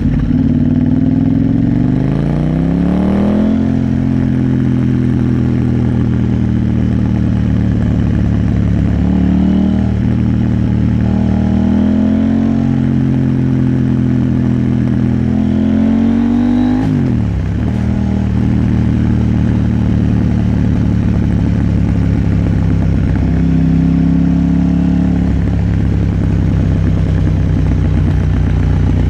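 KTM 890 Duke R parallel-twin engine running under way, its pitch rising several times as it pulls through the gears, with a quick drop in revs about two-thirds of the way through.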